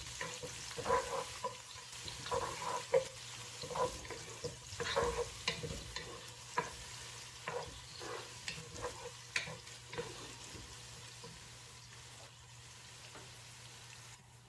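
Chopped onions sizzling in hot oil and ghee in a cooking pot, with a spoon knocking and scraping against the pot as they are stirred. The stirring knocks stop about ten seconds in, leaving only the faint sizzle.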